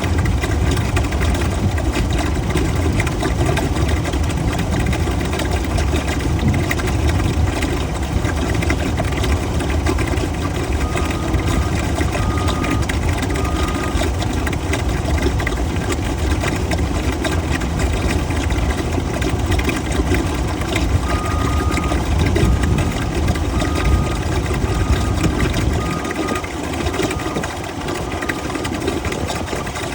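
An engine running steadily with a deep rumble that drops away about four seconds before the end, with faint short beeps in two runs.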